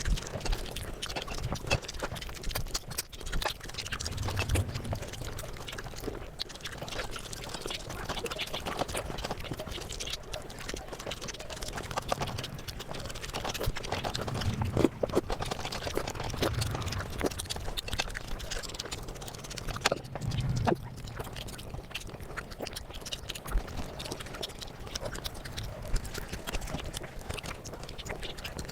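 Eating sounds sped up five times: rapid chewing and mouth clicks run together into a dense clatter, with a low thud now and then.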